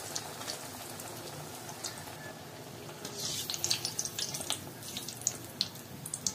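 Breadcrumb-coated bread kachori frying in hot oil in a wok: a steady sizzle, with sharp crackles and pops picking up about halfway through.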